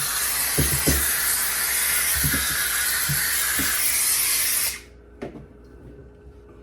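McCulloch handheld steam cleaner blowing a steady hissing jet of steam, which cuts off suddenly about three quarters of the way through as the trigger is released. A few light knocks are heard during and after it.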